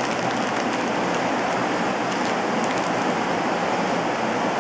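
Rain falling, a steady hiss, with a few faint crinkles of plastic-bagged accessories being handled.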